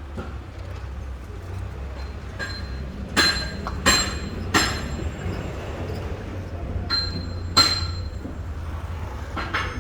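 Several irregular, sharp clanks of metal being struck, such as a hammer on steel, each ringing briefly, over a steady low hum.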